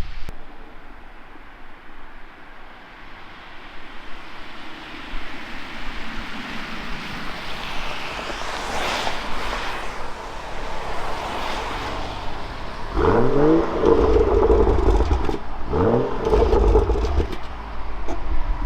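BMW 435i's turbocharged straight-six through its M Performance exhaust, running quietly at first and then accelerating hard about two-thirds of the way in. The revs climb, drop at a gear change and climb again.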